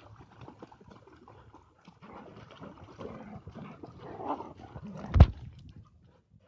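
A dog's sounds amid irregular scuffling, with one loud low thump about five seconds in.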